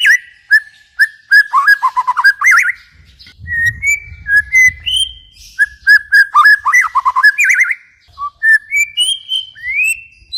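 Songbird singing a rapid, loud run of clear whistled notes and quick downward-swooping phrases, with short pauses between bursts.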